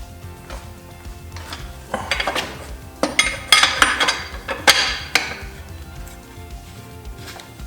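Metal tools and bike parts clinking and clattering during a dirt bike teardown, over background music. The clatter is loudest in a brief cluster about two seconds in and again from about three to five seconds in, with ringing metallic clinks.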